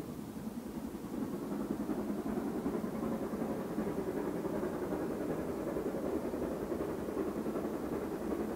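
A train's engine heard at a distance, a steady low rumble that grows louder about a second in and then holds.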